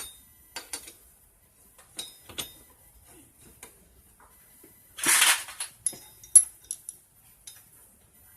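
Metal tools and engine parts clinking and knocking during an engine teardown, with a longer scraping rattle about five seconds in and a sharp click soon after.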